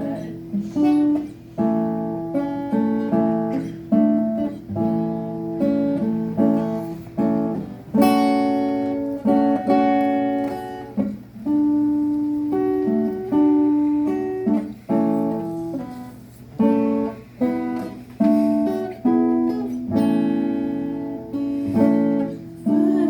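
Acoustic guitar playing an instrumental break, a steady run of plucked notes and strummed chords, each note struck sharply and left to ring.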